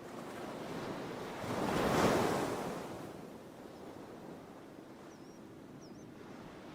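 Ocean waves surging and washing on shore: one wave builds to its loudest about two seconds in and dies away over the next couple of seconds, over a steady background wash of surf.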